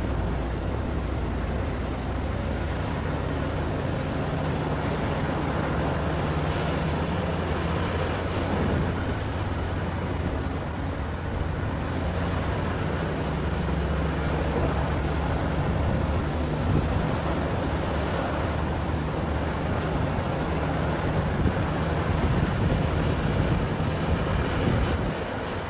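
Diesel engine of a large Caterpillar mining excavator running steadily under work, a deep, even rumble with machine noise over it.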